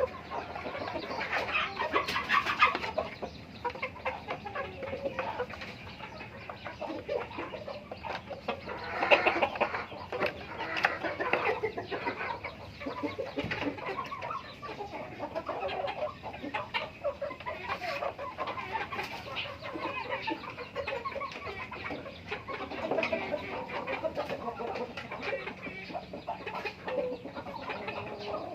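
A flock of chickens clucking continuously, many short overlapping calls, as they are fed, with louder bursts of clucking about two seconds and nine seconds in.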